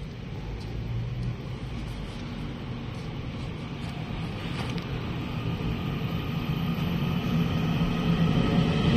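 Electric multiple-unit train pulling out of a station: a low rumble with a motor whine that grows louder and rises slightly in pitch as it gathers speed.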